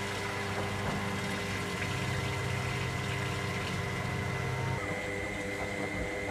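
Electra AWF683 washing machine between rinses, its pump humming steadily with water moving through the machine. One part of the hum drops out about three-quarters of the way through.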